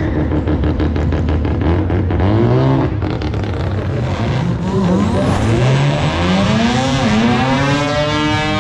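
Race car engine at a drag strip: a rough, rapid pulsing at low revs, then revving hard with its pitch climbing and falling back several times, like gear changes under acceleration.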